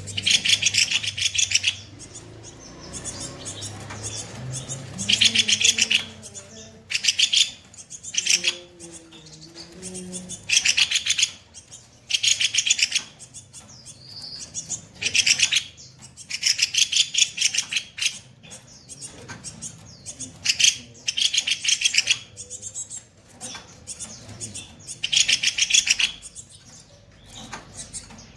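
Kopi-kopi bird calling in harsh, rough bursts: a dozen or so fast rattling trills, each about a second long, repeated roughly every two seconds.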